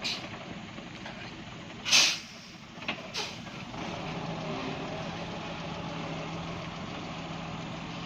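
Heavy truck engine running, with a loud short air-brake hiss about two seconds in and shorter hisses at the start and a little after three seconds; from about four seconds the engine settles into a steady note.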